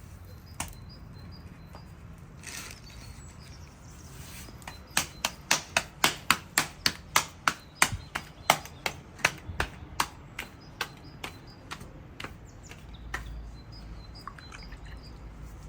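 Knife chopping on a wooden board: a quick run of sharp knocks, about three to four a second, starting about five seconds in and thinning out after about twelve seconds, with a few single knocks around it. Faint bird chirps sound in the background.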